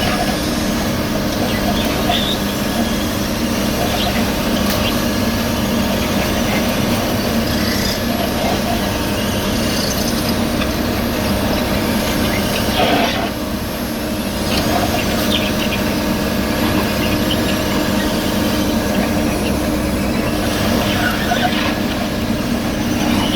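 Heavy road-paving machinery with its diesel engine running at a steady drone, and short metallic squeaks now and then.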